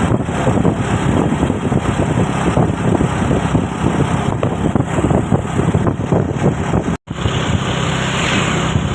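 Truck engine running on the road, a dense steady noise that cuts out for an instant about seven seconds in and then carries on.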